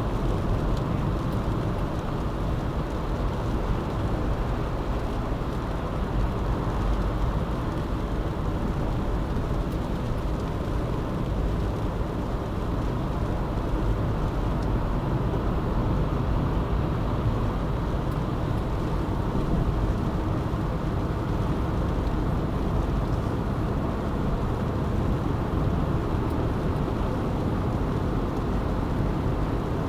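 Car driving at a steady speed: continuous road and tyre noise with a low engine hum, even throughout.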